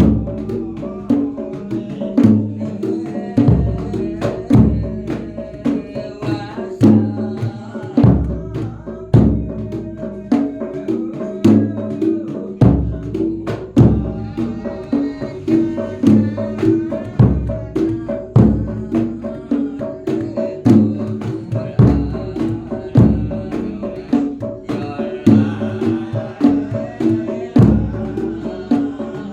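Folk percussion ensemble playing, with a jedor bass drum beaten steadily about once a second under smaller hand-drum and tuned-percussion strokes.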